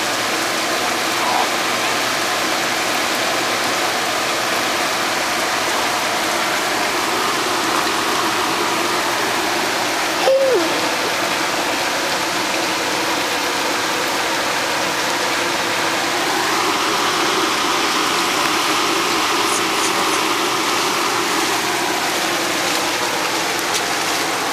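Steady rushing of flowing floodwater, with a brief short sound about ten seconds in.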